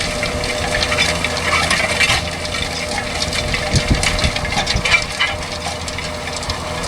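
Tractor pulling a disc harrow over stony ploughed ground: a steady engine hum under continuous crackling and crunching of clods and stones.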